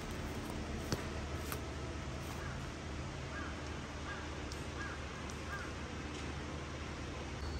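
A bird calling in a run of about five short, evenly spaced calls roughly half a second apart, over a steady rushing background noise.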